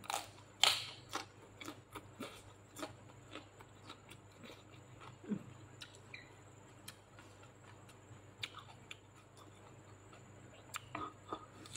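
Close-up wet chewing and mouth smacking of someone eating food by hand: a string of short, irregular clicks, loudest about half a second in.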